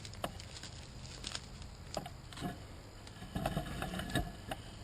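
Scattered rustles and snaps of leaves and twigs in dense brush, with a busier stretch of rustling a little past the middle.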